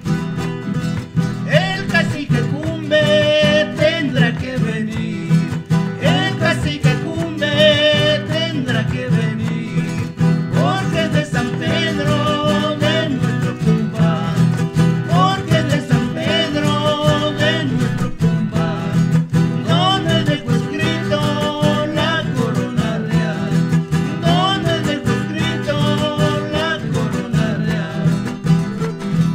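Traditional Andean string-band music: steadily strummed guitars under a wavering lead melody that repeats in phrases of about two seconds.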